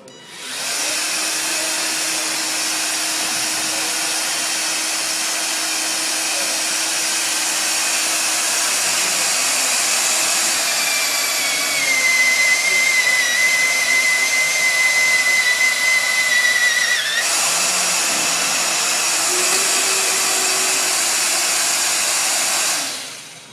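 Cordless magnetic drill motor spinning up and running an annular cutter. About halfway through, a high whine comes in and the sound grows louder for about five seconds, then changes abruptly. The drill runs on and winds down near the end.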